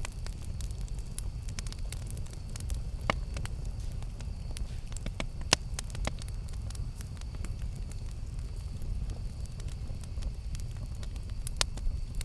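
Campfire burning with a steady low rumble and irregular sharp crackles and pops, the loudest pop about five and a half seconds in.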